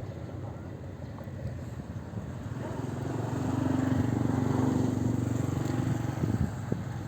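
Fast passenger boat's engines running with a steady low drone that swells louder from a few seconds in, holds, and then drops back near the end.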